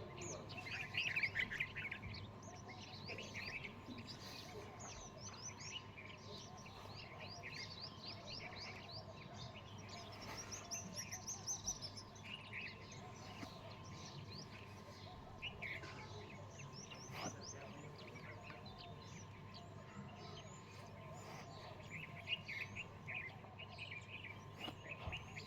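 Small birds chirping and twittering in a busy chorus of short, high chirps, thickest about a second in, around ten seconds in and near the end, over a faint steady hum.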